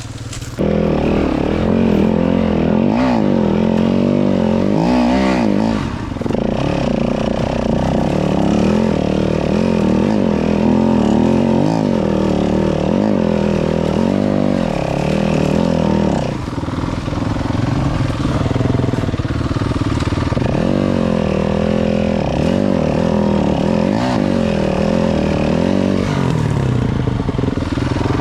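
Four-stroke single-cylinder dirt bike engine pulling away about half a second in, then running under varying throttle, its pitch rising and falling as it is ridden slowly. The throttle is eased off briefly twice.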